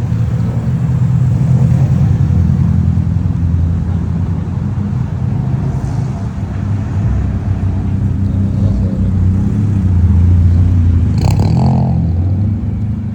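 Car engine running with a steady low rumble. A short, sharp noise comes near the end.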